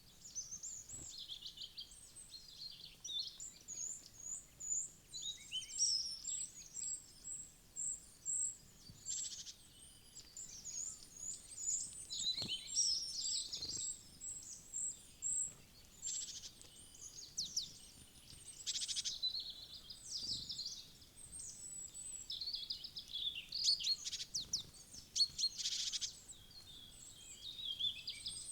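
Small songbirds chirping and twittering, many short high calls in quick runs throughout, with a few faint taps underneath.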